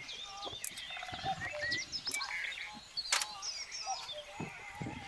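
Several small birds singing at once, a busy mix of overlapping chirps and whistled notes, with one sharp click about three seconds in.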